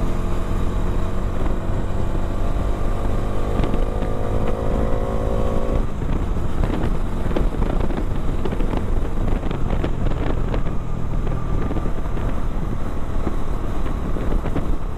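Motorcycle engine on the move, its pitch rising slowly for about six seconds as it accelerates. Then the engine fades into road and wind noise with scattered knocks and rattles from a rough road surface.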